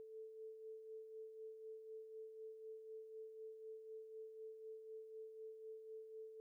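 A single steady electronic sine tone, mid-pitched, softly pulsing in loudness about three times a second, played as a background bed during the quiz's thinking time.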